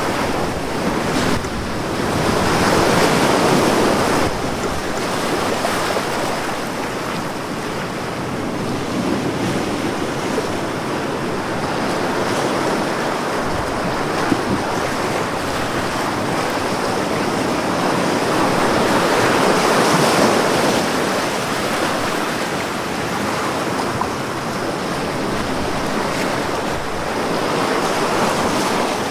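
Ocean waves breaking and washing on a beach, a steady surf rising into louder swells every several seconds.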